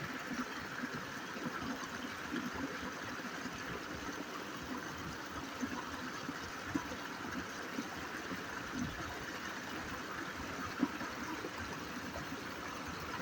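Steady rushing of flowing water, with a few faint knocks.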